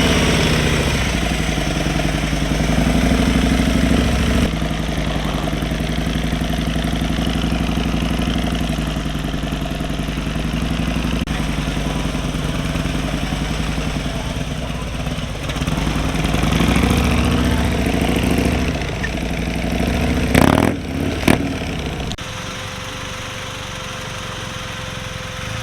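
Police motorcycle engine running at low speed through a slow-speed riding pattern, its pitch rising and falling with throttle and clutch work. About twenty seconds in come two sharp knocks, then the engine drops to a quieter steady hum.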